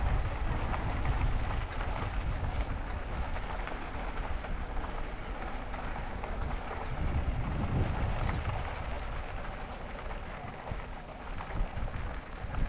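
Wind buffeting the microphone of a camera riding on a moving e-bike: an uneven low rumble with a hiss above it, swelling about seven to eight seconds in.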